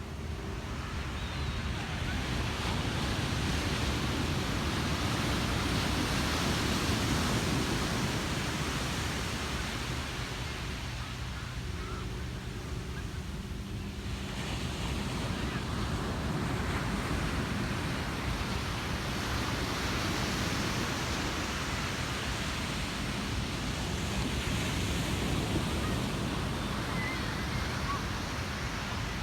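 Ocean surf: waves breaking and washing up the beach in a continuous rush that swells and eases, with a softer lull about twelve seconds in.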